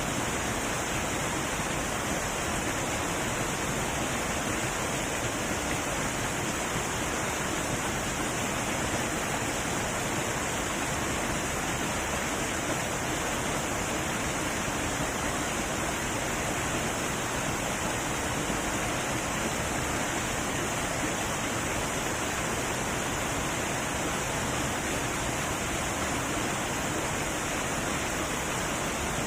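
Heavy waterfall rushing, a steady, unbroken roar of falling water.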